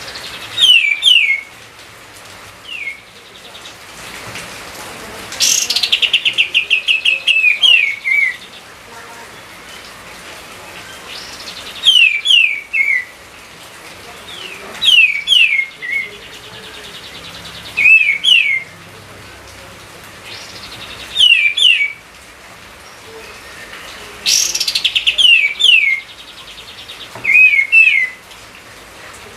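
A songbird singing short phrases of two or three clear notes, each sliding down in pitch, repeated every few seconds, with a fast rattling trill twice, once early on and again near the end.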